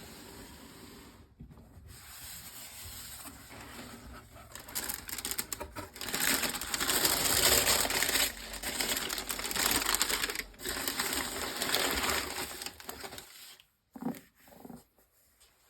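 Sneaker box packaging being handled: paper crinkling and rustling, loudest and most crackly through the middle, with a couple of soft knocks near the end.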